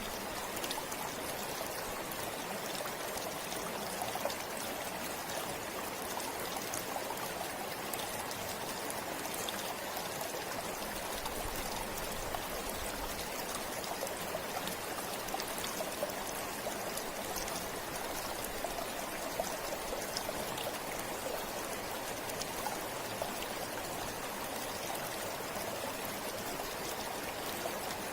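A river or stream flowing over stones: a steady rushing and babbling of water, with small splashes and trickles scattered through it.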